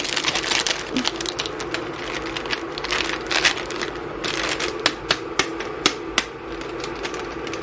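Plastic packaging of a jumbo instant-ramen container being handled and opened: irregular crinkling and crackling with many sharp clicks, over a steady low hum.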